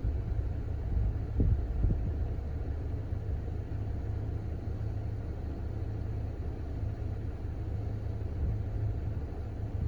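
Chevrolet Cruze 1.4-litre turbocharged four-cylinder engine idling with a steady low rumble, running smoothly with no knock on a new connecting-rod bearing. Two light knocks come about a second and a half in.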